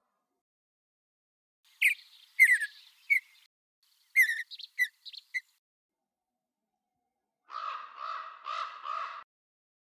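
Birds calling: two bursts of short, downward-sliding chirps, then four harsher calls in a row near the end.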